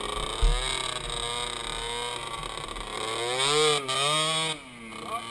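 Small ATV engine revving, its pitch rising and falling repeatedly as the throttle is worked, loudest for a second or so past the middle. A low knock about half a second in.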